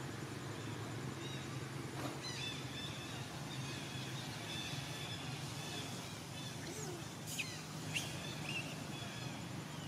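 Faint, high bird chirps over a steady low background hum, with two short, sharp calls a little past the middle.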